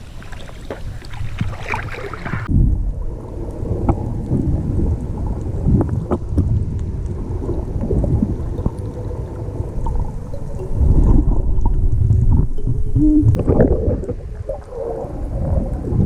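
Muffled underwater sound of a snorkeler's camera: a dense low rumble and gurgling with scattered clicks. The higher sounds cut off about two seconds in as the camera goes below the surface.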